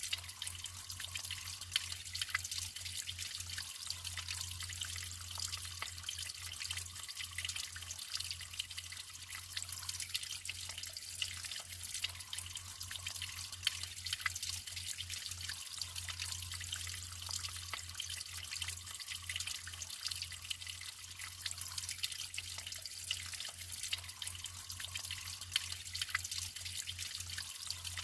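Natural water flowing and trickling steadily, with a constant patter of small splashes and drips, and a steady low hum underneath.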